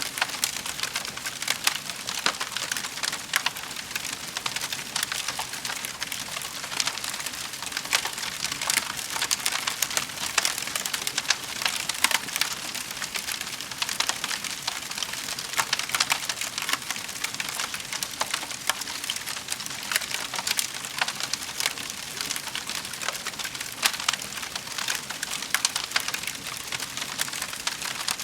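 Wood fire in a fireplace crackling steadily, with dense small pops and snaps throughout and a few sharper cracks.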